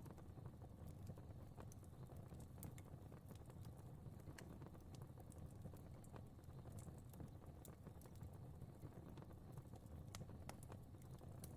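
Fire crackling softly: irregular small pops and snaps scattered over a low, steady burning rumble.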